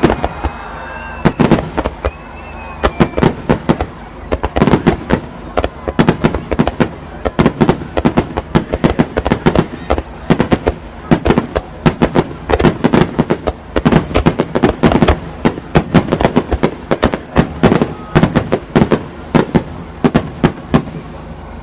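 Fireworks display in a rapid barrage of aerial shell bursts, several sharp bangs a second, easing off just before the end.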